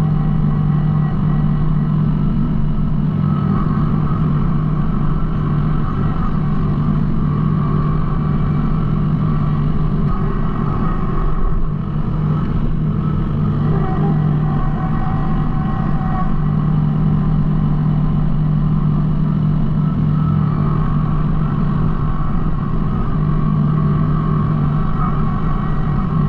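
Kubota B2650 compact tractor's three-cylinder diesel engine running steadily at working speed, its note shifting slightly now and then.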